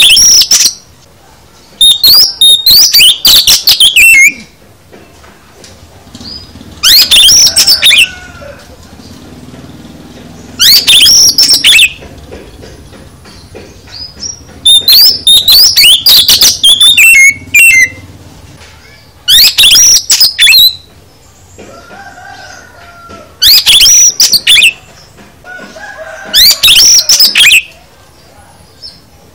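Oriental magpie-robin (kacer) singing. Its song comes in about eight loud bursts of rapid, varied high notes, each a second or two long, with short pauses between. This is the 'full isian' song, packed with varied phrases.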